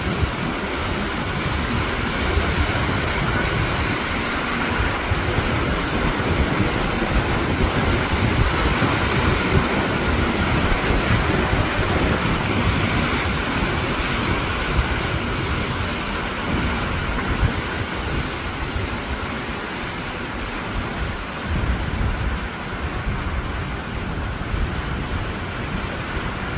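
Sea waves washing against the shore in a steady rush, with wind gusting on the microphone as an uneven low rumble.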